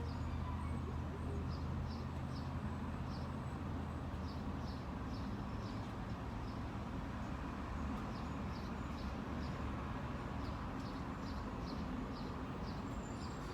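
Small birds chirping in short, repeated high calls over a low, steady rumble.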